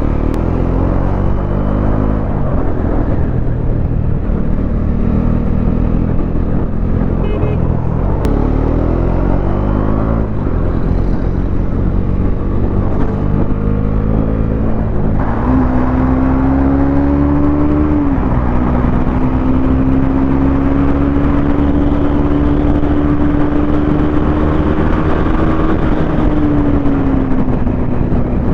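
Bajaj Dominar 400's single-cylinder engine under way. Its pitch climbs and drops back several times as it accelerates and shifts up through the gears, then holds a steady note for about ten seconds before easing off near the end, over a rush of road and wind noise.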